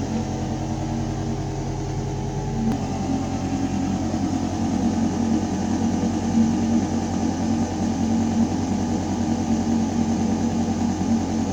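Building ventilation system running: a steady low mechanical hum with air rushing through metal ductwork. After about three seconds the hum turns slightly rougher and more fluttering.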